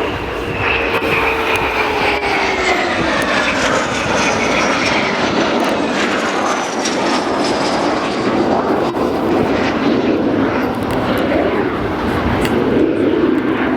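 Dassault/Dornier Alpha Jet turbofan jets flying low past: an engine whine drops in pitch as they go by, over a steady rushing jet noise.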